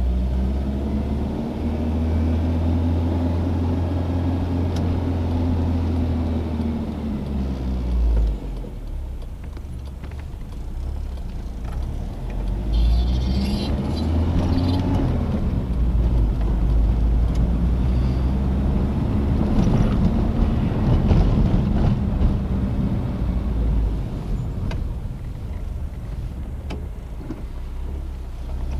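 Citroën DS four-cylinder engine under way while driving, its pitch rising and falling three times as it accelerates and eases off, over a heavy low rumble.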